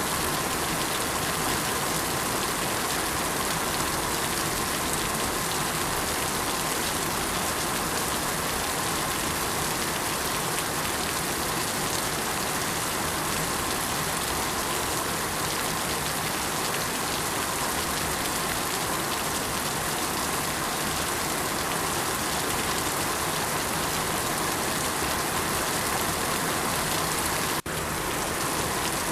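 Steady rain falling, an even hiss of drops on surfaces with no distinct pattern, broken by a momentary dip near the end.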